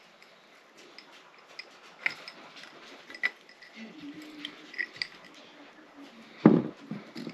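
Scattered small clicks and clinks of a glass jar and its contents being handled, with a faint low whine a few seconds in and a loud, short low sound near the end.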